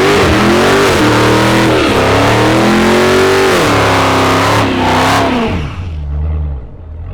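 A car's engine held at high revs during a burnout, the revs wavering up and down, with a loud hiss of spinning tyres over it. About six seconds in the engine falls back off the throttle and the sound drops.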